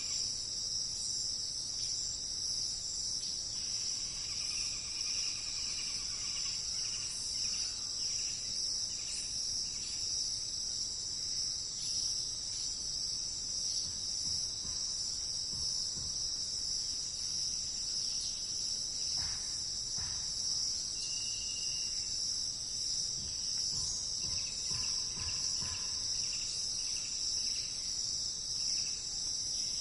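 A steady, high-pitched insect chorus, a continuous shrill trill that never lets up, with faint bird calls now and then underneath.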